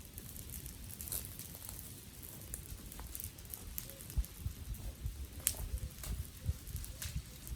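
Wood fire of garden sticks crackling, with a soft hiss and a low rumble under scattered sharp pops and snaps, the clearest about one, three, five and a half and seven seconds in.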